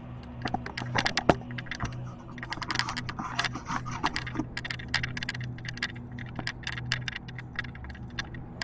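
Footsteps over uneven ground, heard as a run of irregular sharp crackling clicks over a steady low hum.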